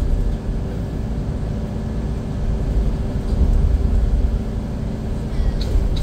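Scania K410IB coach under way, heard on board: a steady low engine and road rumble with a constant hum above it.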